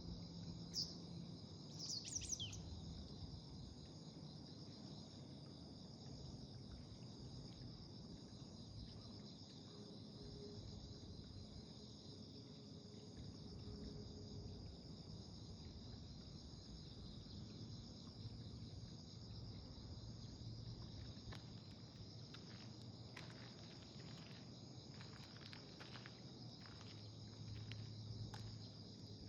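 Faint, steady high-pitched insect trilling, cricket-like, with two short bird chirps in the first few seconds.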